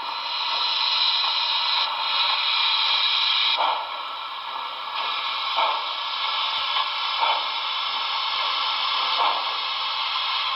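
The onboard sound system of an HO-scale Broadway Limited Milwaukee S3 4-8-4 steam locomotive plays a steady steam hiss through its small speaker, stepping up and down in level a few times. Soft puffs recur every couple of seconds as the model creeps along at low speed.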